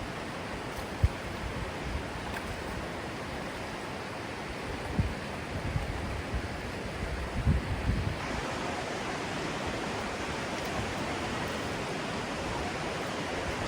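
Steady rush of river water, with a few low thumps of wind or handling on the phone's microphone. The rushing gets brighter about eight seconds in.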